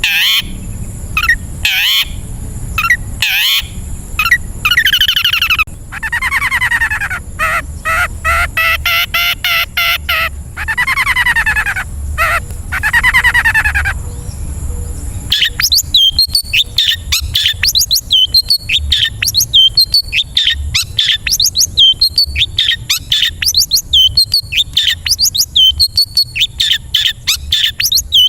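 Long-tailed shrike (cendet) song: first a string of short down-slurred calls, then several seconds of harsh, buzzy rasping calls, and from about halfway a fast, busy run of short chirps.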